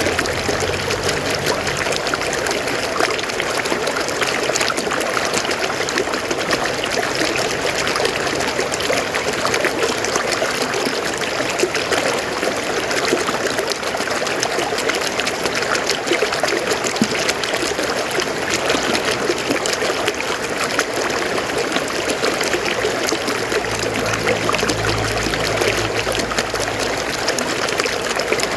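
River water flowing steadily over rocks, a continuous rushing with many small splashes.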